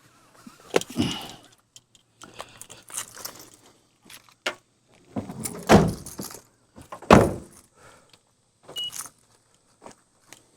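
Getting out of a parked car: keys jangling and assorted clicks and rattles, with car doors shutting. Two heavy door thunks come about six and seven seconds in.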